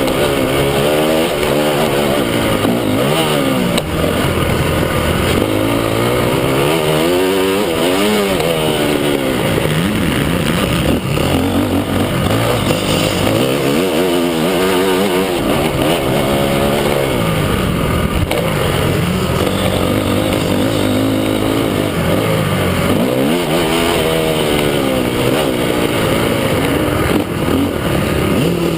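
Several motocross bikes running on a dirt track at once, their engines revving up and down over and over as they accelerate and back off.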